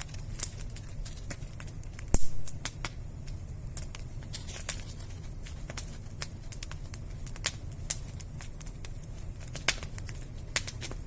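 Wood fire crackling, with irregular sharp pops and snaps over a steady low rumble, and one louder knock about two seconds in.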